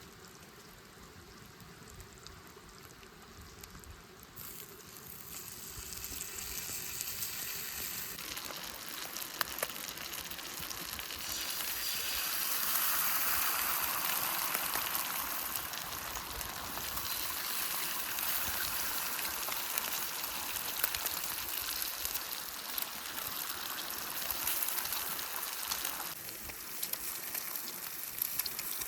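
Food sizzling as it fries in a pan over a campfire. The sizzle starts faint, swells over the first several seconds to its loudest near the middle, then holds steady, with a few sharp pops.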